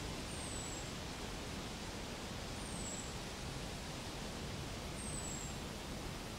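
Steady hiss of outdoor background noise, with a bird's high, thin, down-slurred whistle heard three times, about two and a half seconds apart.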